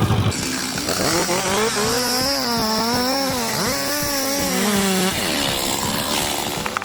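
Two-stroke chainsaw running at high revs while cutting wood, its pitch rising and falling as the chain bites and frees, then holding steady before fading near the end. A low engine sound cuts off just after the start.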